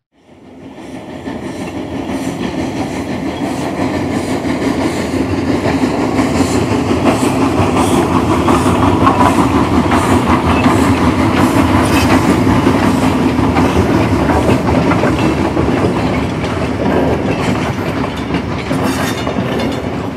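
A train rolling past, its wheels clacking over the rail joints; the sound builds up over the first couple of seconds, holds loud, and fades away near the end.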